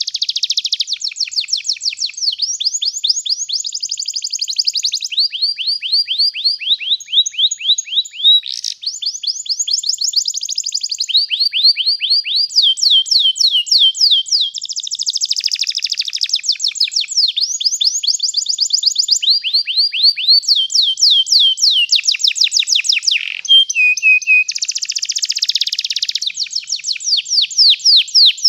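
Domestic canary singing a long, unbroken song of rapid trills (rolls), switching to a new repeated-note phrase every second or two.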